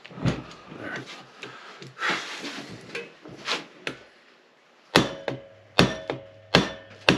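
Hammer blows on the seized 1973 Honda CB450 engine as it is worked apart. A few duller knocks come first, then, after a brief pause, four sharp strikes about a second apart, each leaving a metallic ring.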